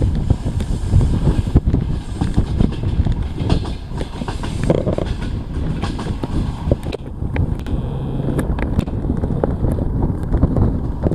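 Passenger train carriage running on the rails: a steady low rumble with the knocking of the wheels over the track, many irregular sharp clicks throughout.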